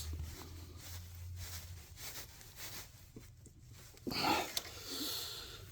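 Faint scraping and small clicks as a tool is worked inside an engine's dipstick tube to free a seized broken dipstick. About four seconds in comes a louder strained breath of effort.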